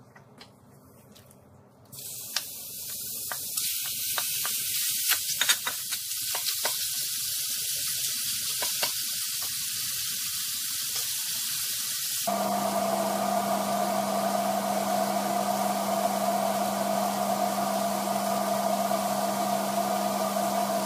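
Raw chicken pieces start sizzling loudly as they go into a hot stainless steel pot about two seconds in, with clicks and scrapes of a wooden spoon stirring them. About halfway through, a steady machine hum starts and runs under the sizzling.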